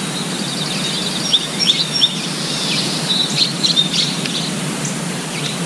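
Small songbirds chirping and trilling in quick high calls, busiest in the middle of the stretch, over a steady outdoor background rush.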